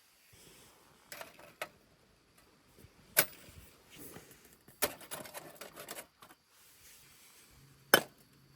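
Scattered sharp clicks and knocks: a pair about a second in, a loud one about three seconds in, a quick run of clicks around five seconds, and the loudest single knock near the end.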